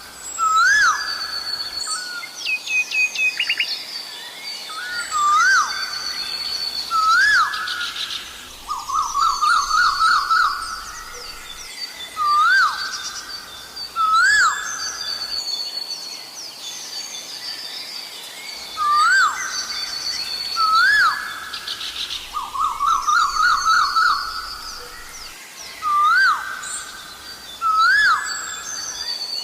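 Asian koel calling over and over: pairs of rising 'ko-el' notes every couple of seconds, with two quick runs of rapid notes. Other small birds chirp at a higher pitch behind it.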